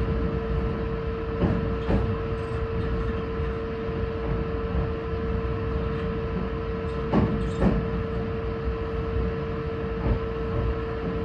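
Meitetsu 2200 series electric train rolling slowly, heard from inside the driver's cab: a low rumble with a steady hum over it. A few clunks of the wheels over rail joints and points come, twice in the first two seconds, a pair past the middle, and one more near the end.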